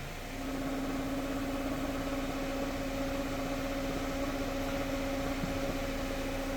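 A steady low drone with a fainter higher tone above it, starting a moment in: the fart-like noise from a Volvo's fuel-vapour (EVAP) system, which the owner blames on a clogged secondary charcoal canister.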